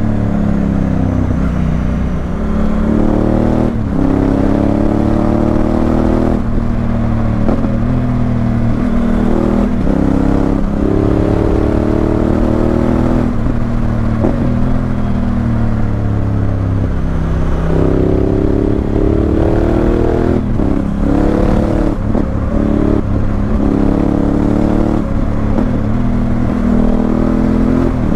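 Honda Africa Twin CRF1000L's parallel-twin engine through a Remus aftermarket exhaust, riding hard: the revs climb and drop sharply at each gear change, several times over, with stretches where the pitch falls as the throttle is eased off before pulling again.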